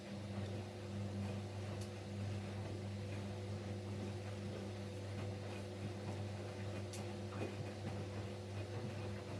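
Siemens Siwamat Plus 574 washing machine in its fourth rinse with fabric softener: the drum motor starts a turn and runs with a steady hum, with a few faint clicks.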